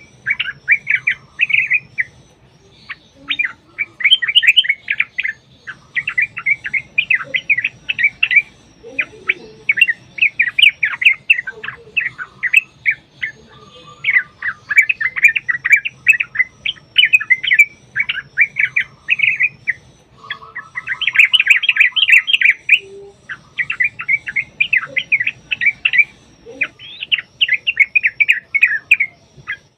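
Yellow-vented bulbuls (trucukan) singing: dense runs of rapid, chattering notes in bursts of a few seconds with short breaks, as if two birds are duelling.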